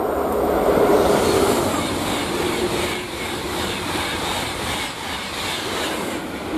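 Trenitalia high-speed train passing at speed: a loud rush that swells about a second in, then holds with a fast, regular beat as the cars go by.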